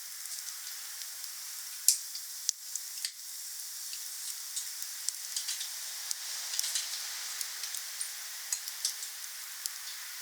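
Wood fire burning: a steady hiss with scattered sharp crackles and pops, the loudest about two seconds in.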